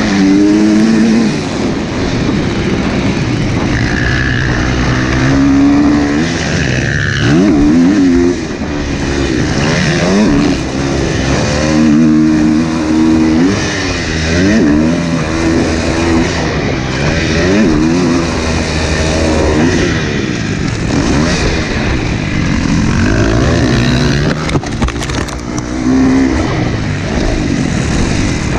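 Husqvarna motocross bike engine under hard riding, its pitch climbing and dropping over and over as the rider accelerates, shifts and backs off, with steady wind noise on the microphone.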